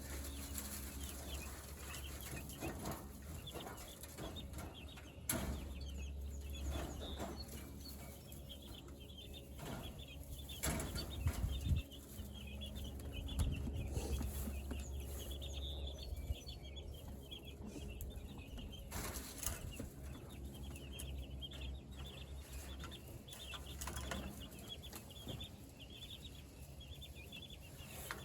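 A flock of young meat chickens peeping over and over, with a few loud bumps and knocks as they are handled, over a steady low rumble.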